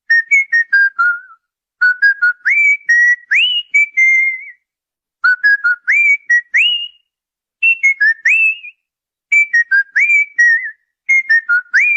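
Loud whistled song in short repeated phrases. Each phrase is a quick run of clear notes, several ending in a rising upward swoop, with brief silent pauses between phrases.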